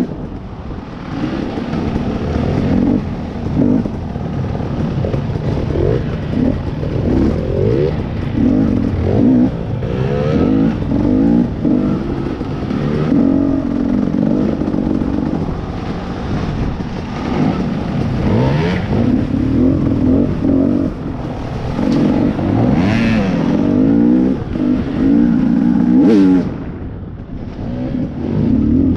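Two-stroke dirt bike engine revving up and down as it is ridden along a trail, with the pitch rising and falling repeatedly as the throttle opens and closes.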